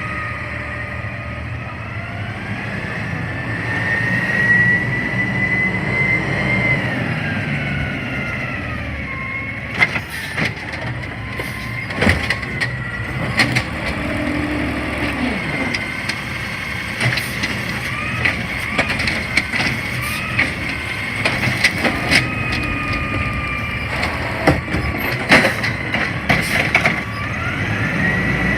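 CNG garbage truck running under load, with a whine that rises and falls in pitch between about 1 and 2 kHz. Scattered sharp knocks and clanks come through it.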